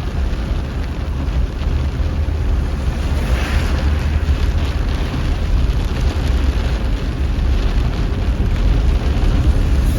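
Steady low wind rumble and road noise inside a moving car with its windows open, buffeting the phone's microphone.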